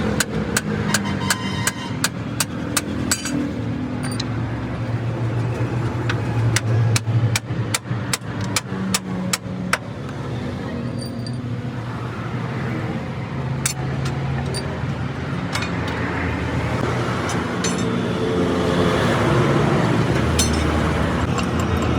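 Vehicle engines running on a busy road, with a string of sharp metallic clinks and taps through the first ten seconds; a deeper engine drone grows louder near the end.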